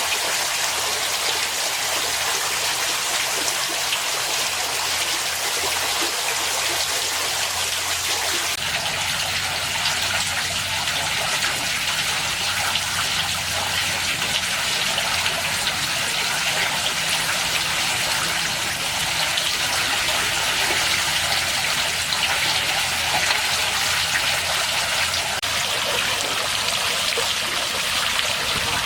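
Pool waterfall running: a steady rush of falling, splashing water that changes in tone about eight seconds in.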